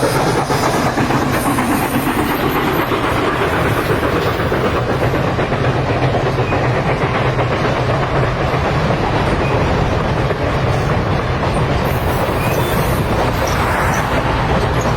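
A train running along the track: a steady, loud rumble that keeps up evenly throughout.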